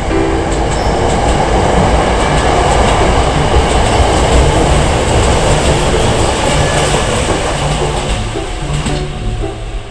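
Hankyu electric train running on the rails: a steady rumble with wheel clatter on the track, swelling to a peak around four seconds in and easing off toward the end.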